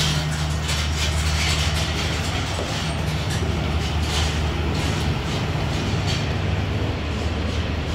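Diesel passenger train of the State Railway of Thailand on the track right beside the platform: a steady low engine drone under a continuous rumble of train noise.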